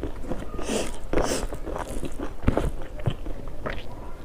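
Close-up eating sounds: a person biting and chewing food, with irregular crunches and mouth clicks.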